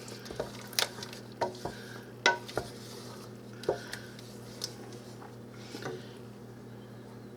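A spoon stirring soup in a cooking pot, knocking and clinking against the pot's sides in about nine irregular strikes, some with a brief ring. A low steady hum runs underneath.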